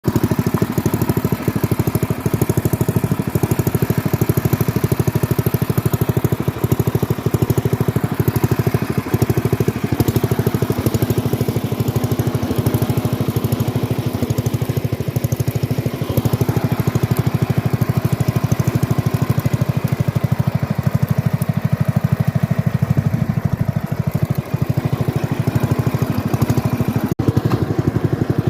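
Allis-Chalmers B-10 garden tractor engine running steadily under way, its firing pulses even and continuous, with a momentary cut-out near the end.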